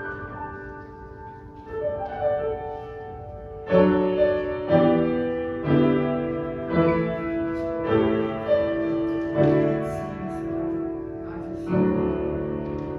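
Piano playing slow, hymn-like chords, softly at first, then struck more firmly about once a second from near four seconds in, each chord left to ring and fade.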